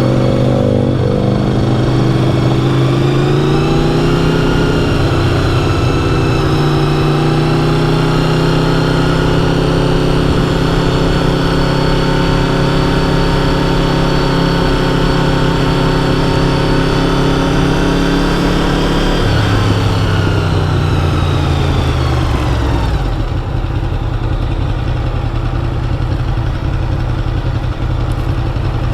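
Honda VFR750's V4 engine on the move. Its pitch climbs over the first few seconds as the bike accelerates, holds steady at cruise, then drops about two-thirds of the way through and settles lower as the bike slows down.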